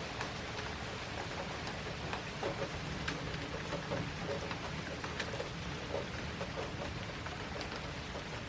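Steady rain falling, with scattered drips and drops tapping close by.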